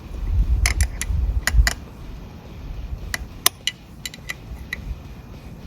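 Light metallic clinks and taps of hand tools and engine parts being handled while a motorcycle cam chain tensioner is fitted, with low bumps of handling in the first two seconds.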